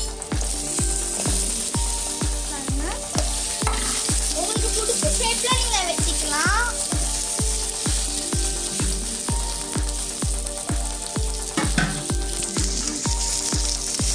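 Cubes of elephant yam frying in hot oil in a kadai, with a steady sizzle. Background music with a regular low beat plays under it.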